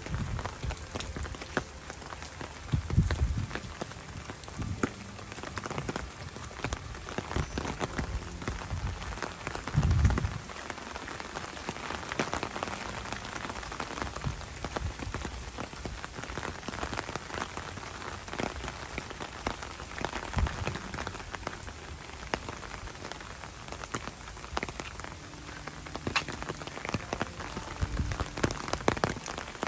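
Steady rain with a dense patter of drops. A few low thumps stand out; the loudest comes about ten seconds in, and others come around three and twenty-eight seconds in.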